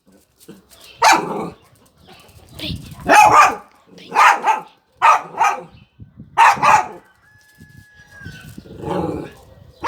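A dog barking in loud single barks, about six of them spaced roughly a second apart, with a longer gap before a softer last bark near the end.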